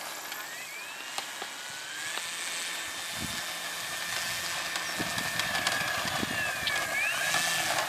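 Electric motor of a radio-controlled model airplane whining in flight: a steady high tone that rises in pitch about a second in, dips and climbs again near the end, and grows slowly louder.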